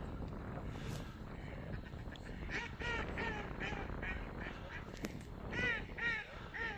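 Ducks quacking in a run of short calls, several a second, over low background noise. The quacks grow louder near the end.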